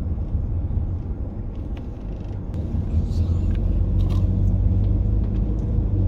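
Steady low rumble of a car driving, growing a little louder about halfway through, with a few light clicks.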